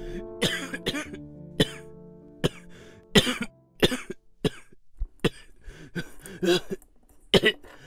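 A man coughing and gasping repeatedly, in short separate bursts. Sustained background music fades out about two seconds in.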